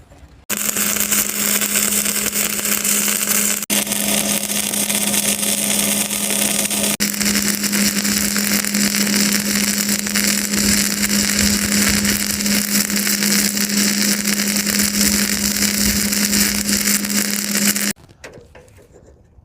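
Angle grinder running against metal: a steady high-speed motor hum under a loud hissing grind, with two momentary breaks, cutting off abruptly near the end.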